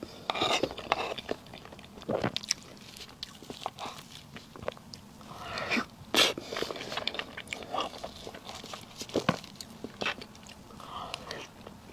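Close-miked eating of soft cream cake: wet chewing and mouth sounds with many small irregular clicks.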